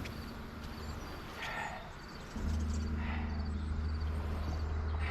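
Low wind rumble on the microphone, growing louder about halfway through, with scuffing movement and two short breaths from exertion while a heavy kayak is hauled to the water.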